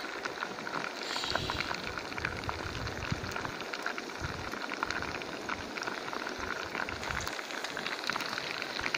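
Pig ears frying in hot fat in a blackened pan over a wood fire, sizzling steadily with many small crackles and spatters.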